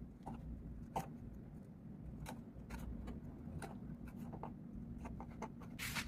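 Faint small clicks and scrapes of a knife cutting into a carrot during carving, spaced irregularly, with a longer scrape near the end over a steady low hum.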